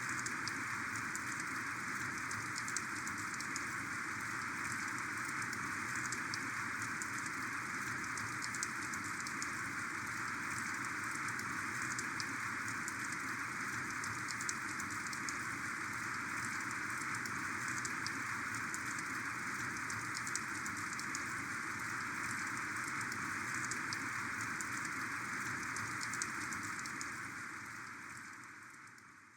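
Heavy rain falling steadily, a dense hiss with a fine patter of individual drops, fading out over the last few seconds.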